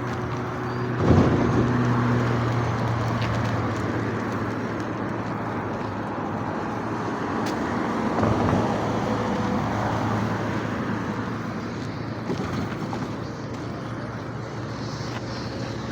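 A motor vehicle running: a steady low engine hum under road and traffic noise, with a single knock about a second in.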